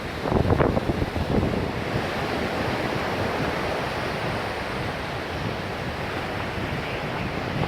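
Wind buffeting the microphone in gusts for the first second or so, then a steady rushing noise.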